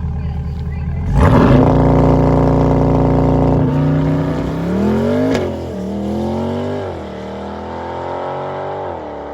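Sports car engine, idling with a low rumble, then revved sharply about a second in and held at a steady high note for a couple of seconds. The pitch then drops and climbs again several times, with a sharp crack about halfway through.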